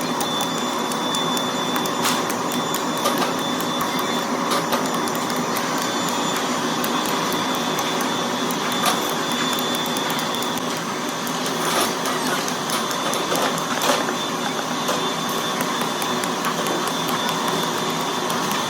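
Workshop machinery running steadily, with a thin high whine for the first half and scattered clicks and knocks throughout, the loudest about fourteen seconds in.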